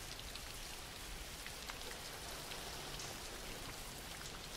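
Steady background rain: an even, quiet hiss of rainfall with faint scattered drop ticks.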